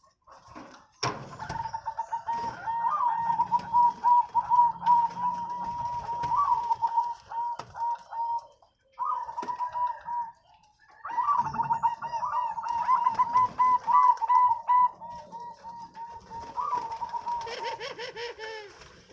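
Zebra dove (perkutut) singing: long runs of rapid, staccato cooing notes. The first run starts about a second in, there is a short break about halfway through, and then a second run follows, with a lower bird call overlapping near the end.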